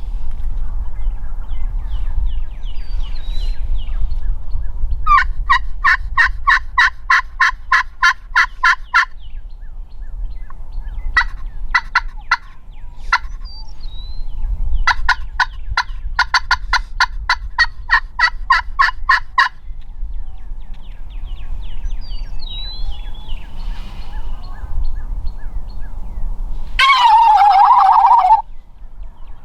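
Turkey calls: two long runs of quick, evenly spaced notes, about eight or nine a second, with a shorter run between them. A loud, harsh burst comes near the end. Small birds chirp faintly over a low wind rumble.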